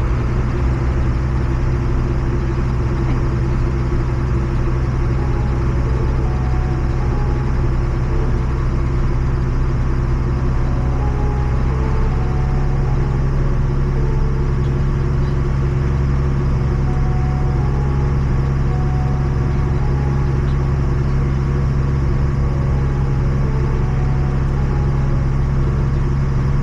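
Farm tractor's diesel engine running steadily while driving on the road, a constant low drone with no changes in speed.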